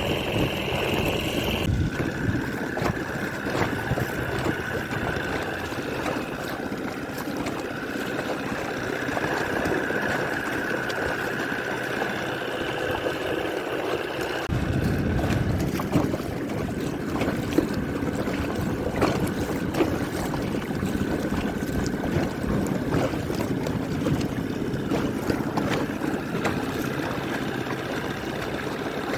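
Small boat motor running steadily with a held whine, water splashing and lapping against the boat.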